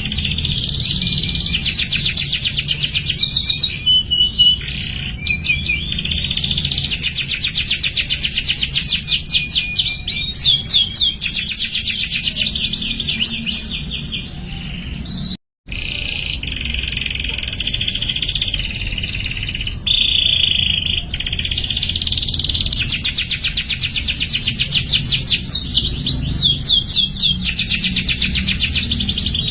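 Domestic canary singing: long runs of rapid, high-pitched repeated trills and rolls, switching from one trill to another every second or two. The song is cut by a brief total silence about halfway through.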